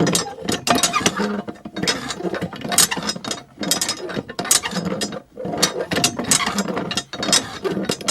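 Rapid, irregular mechanical clicking and rattling.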